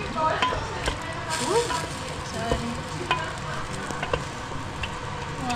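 Food cooking in a pot on the stove: a steady sizzle, with scattered light clicks.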